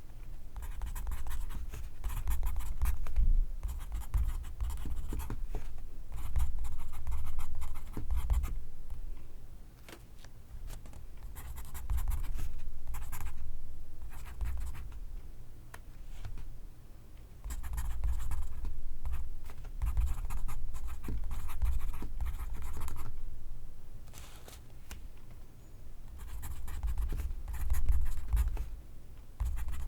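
Pencil scratching across paper in writing strokes, in runs of a few seconds with short pauses between them.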